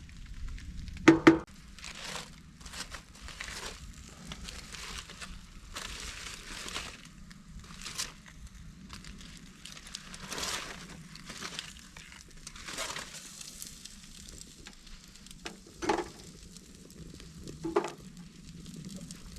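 Rustling and crinkling of things being handled, broken by a few sharp knocks: one about a second in and two more near the end.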